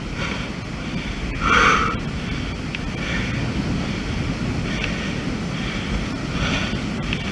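Wind buffeting the microphone with a steady low rumble. Over it comes a hiker's heavy breathing from the steep climb, a soft puff about every second and a half, with one louder breath about a second and a half in.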